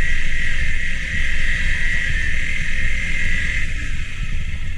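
Motorcycle engine pulling steadily in first gear up a steep dirt climb, a loud low rumble. A steady high-pitched insect drone runs over it and fades out near the end.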